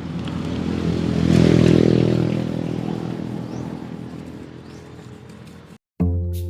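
A motor vehicle's engine passing by, swelling to a peak about a second and a half in and fading away. It cuts off suddenly near the end, and music starts.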